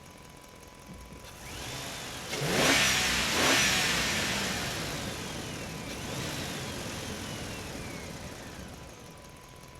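Engine revving twice, each time rising in pitch and then slowly falling away, with a loud rushing burst about two and a half seconds in.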